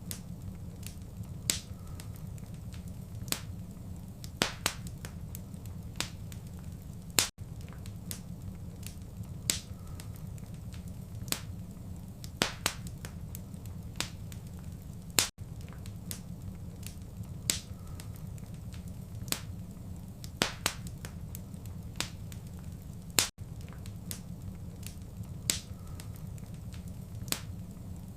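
Fireplace fire crackling: irregular sharp pops and snaps over a steady low rumble. There is a momentary dropout about every eight seconds.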